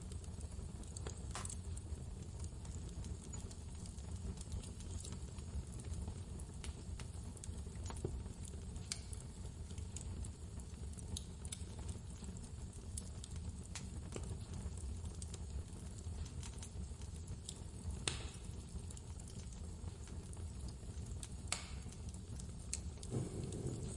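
Wood fire crackling with scattered sharp pops, over a steady low rumble of blizzard wind; a slightly heavier crackle comes near the end.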